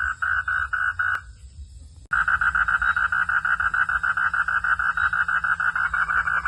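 Frogs calling in a rapid, rhythmic pulsed chorus at about four pulses a second. It breaks off about a second in, then cuts back in abruptly about two seconds in, louder and faster.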